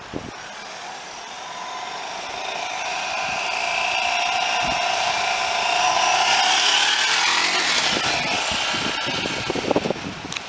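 Suzuki DR650 single-cylinder engine running through its stock muffler, growing louder over several seconds, loudest about six to seven seconds in, then dropping in pitch and fading. A few sharp knocks near the end.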